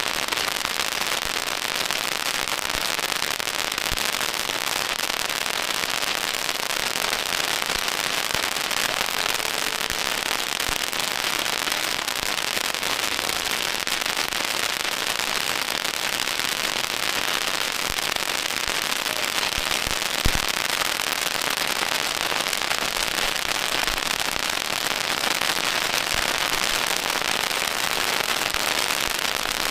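Firecracker strings going off in one continuous, dense crackle, with a single louder bang about twenty seconds in.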